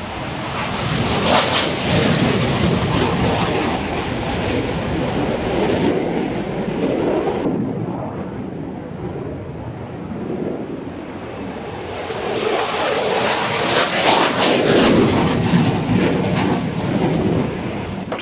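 Aircraft engine noise from low passes on the airfield. It swells loud, eases off after about eight seconds, then swells loud again as a second aircraft passes, and cuts off suddenly at the end.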